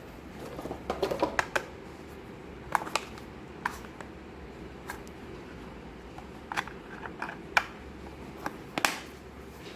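Small plastic toy pieces being handled and set down: irregular light clicks and taps, with a quick run of them about a second in and single ones scattered after.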